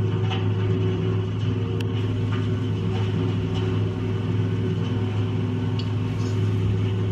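An engine running steadily at a constant speed, a low even hum with a few faint ticks above it.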